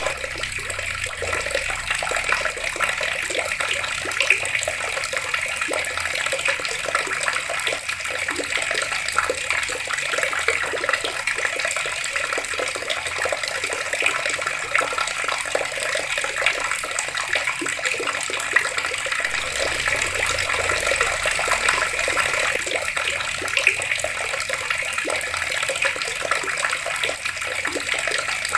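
Water running steadily from open taps: an even rush with many small splashes.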